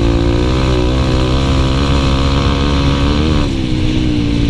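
Dirt bike engine running with a wavering pitch, then easing off about three and a half seconds in, its pitch slowly falling.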